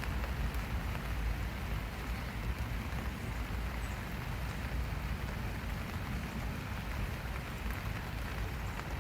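Steady summer rain falling, an even hiss of drops with a constant low rumble underneath.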